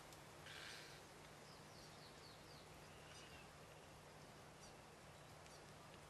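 Near silence, with a faint run of about five short, high, falling chirps from a bird about two seconds in, after a brief soft hiss.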